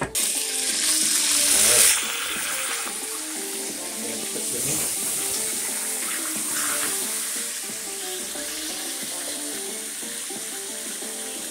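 Pieces of pork and a pork slab frying in hot oil in a pan: a steady sizzle. A louder rush of hiss fills the first two seconds. Background music plays underneath.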